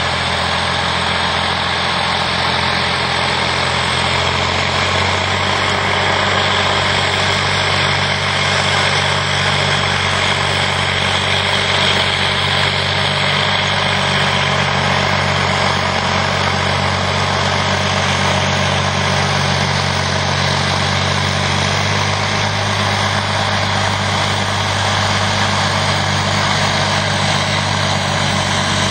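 Steiger articulated four-wheel-drive tractor's diesel engine running at a steady speed.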